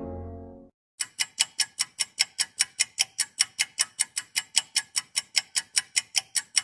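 A clock ticking sound effect: a fast, even run of sharp metallic ticks, about four a second, that stops abruptly. It comes in after the tail of a low horn blast fades out within the first second.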